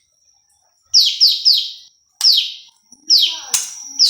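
Prenjak lumut, a small songbird, calling: a series of sharp chirps that fall in pitch, three in quick succession about a second in and then single ones every second or so. A thin, steady high whistle runs beneath them.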